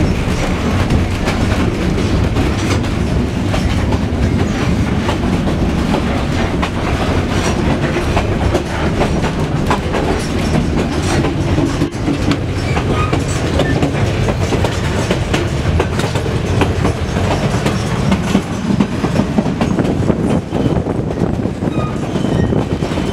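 White Pass & Yukon Route narrow-gauge passenger coach running along the track: a steady rumble with the wheels clicking over the rail joints, heard from aboard the moving car and its open end platform.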